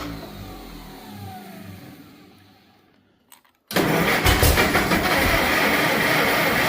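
McCormick W-9 tractor engine winding down to a stop, its pitch falling over about three seconds. A brief silence with a single click follows. The engine is then suddenly running again, loud and steady, missing a little on one cylinder whose spark plug isn't firing.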